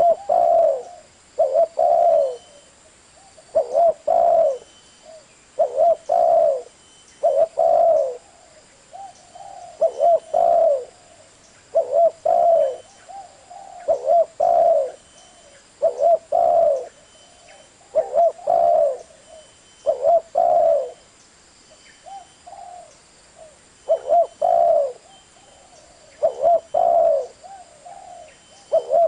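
Spotted dove cooing: low coos repeated over and over, often two or three in quick succession, with short gaps between phrases.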